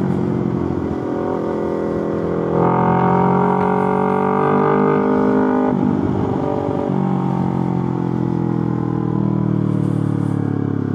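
Yamaha R3's parallel-twin engine running at a steady speed. It gets louder and fuller about two and a half seconds in, then eases back a little before six seconds.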